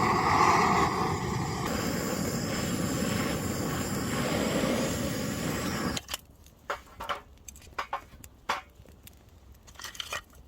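Gas torch flame running with a steady rushing hiss as it lights the campfire, shut off abruptly about six seconds in; scattered light clicks and crackles follow.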